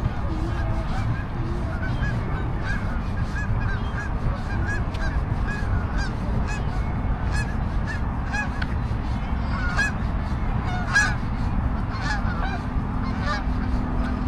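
A flock of geese honking over and over, several short calls a second, the loudest about ten to eleven seconds in, over a steady low rumble.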